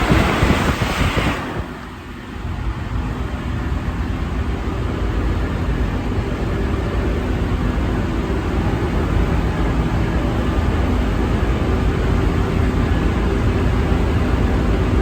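Interior of an Alstom NS-74 rubber-tyred metro car running between stations: a loud rushing noise cuts off suddenly about a second and a half in. A steady low rumble of the train follows, with a faint hum from the traction motors, slowly growing louder.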